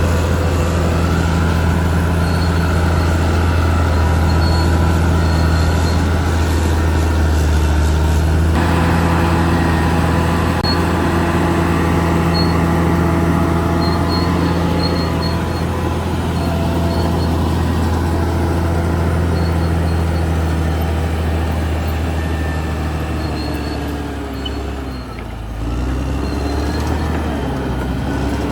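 Caterpillar D6R XL bulldozer's diesel engine running steadily under load, with a sudden change in tone about eight seconds in and a short drop and shift in engine pitch near the end.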